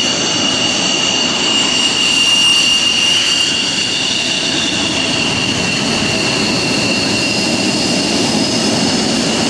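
Jet aircraft engine running with a steady roar and a high, steady whine over it, a little louder two to three seconds in.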